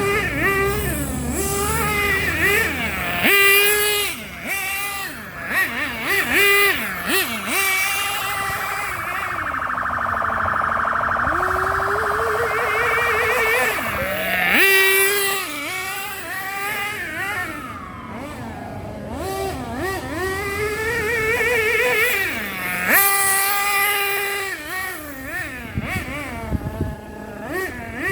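Small two-stroke nitro glow engine of an RC car running and revving, its pitch rising and falling repeatedly with the throttle. There is a longer steady high-pitched stretch about a third of the way in.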